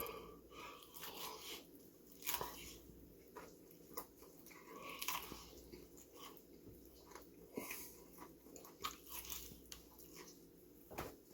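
A man biting and chewing sauced Korean fried chicken legs close to the microphone: irregular crunching and wet mouth clicks, with short gaps between bites.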